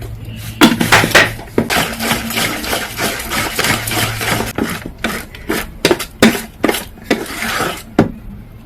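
A utensil stirring thick fritter batter in a bowl, with a quick run of clinks and scrapes against the bowl's side.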